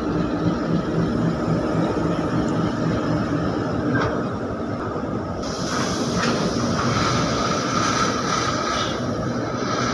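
Freight train of covered goods wagons rolling past: a steady rumble of steel wheels on rail with a few knocks. A high, steady squeal joins in after about six seconds.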